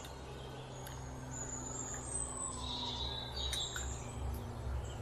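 Small birds chirping with short, high calls, thickest in the middle, over a low steady hum.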